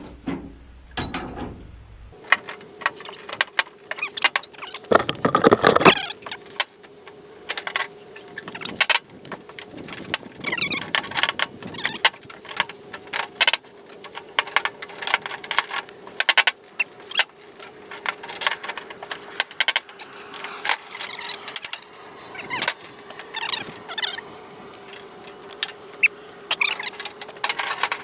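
Metal hand tools clinking and clanking against metal in irregular strokes, with a louder run of clatter about five seconds in, over a faint steady hum.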